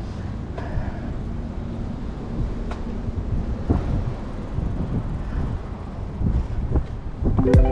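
Wind buffeting the microphone during a bike ride, a steady low rumble with a few light knocks. Music comes in near the end.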